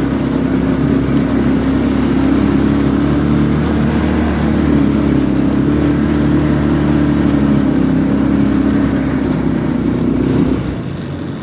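Muravey motor scooter's 150cc 157QMJ single-cylinder four-stroke scooter engine pulling hard in second gear at high revs, running steadily with small swings in pitch. The engine note drops away about ten and a half seconds in as the revs fall.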